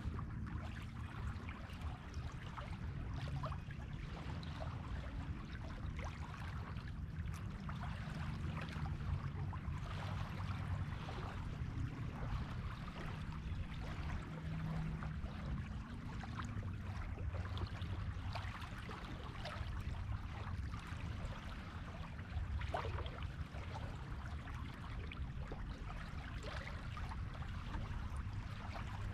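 Sea waves washing on a beach: a steady rush of water with a low rumble and many small crackles and fizzes throughout.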